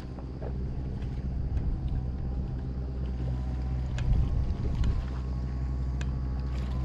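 An engine running steadily with a low, even hum, with a few light clicks.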